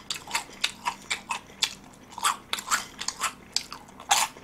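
Close-up crunching and chewing of crispy fried chicken: a quick, irregular run of sharp crunches, a few a second, as the crust breaks between the teeth.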